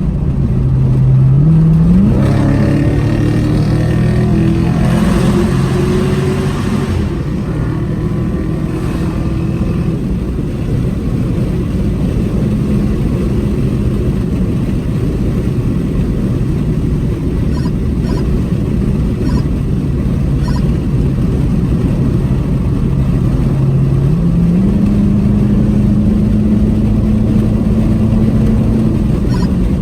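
Car engine and exhaust while driving, heard from inside the car. The engine revs up about two seconds in, runs steadily, then climbs in pitch again near the end.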